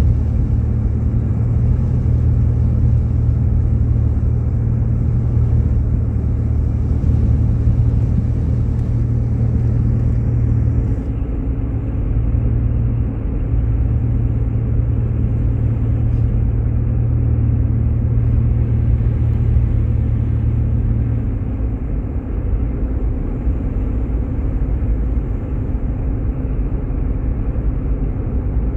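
Steady low rumble of a Jeep Grand Cherokee driving on a snowy road, heard from inside the cabin: engine and road noise with no change in speed.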